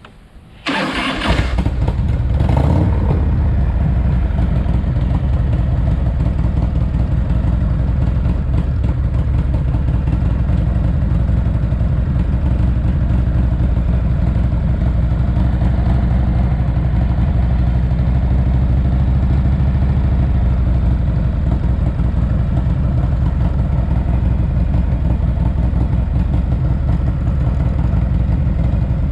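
Rebuilt S&S 107ci V-twin in a 1985 Harley-Davidson FXRT starting up about a second in, revving briefly once more a moment later, then idling steadily.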